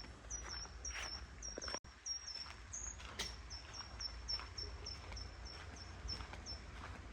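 A small bird repeating a short, high call that falls slightly in pitch, about three times a second, with footsteps underneath.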